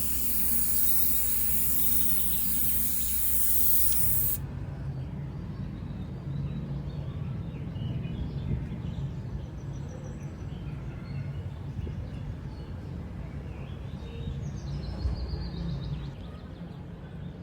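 A steady hiss of spraying, such as a spray can or spray gun at work, cuts off suddenly about four seconds in. After it only a quieter low hum remains.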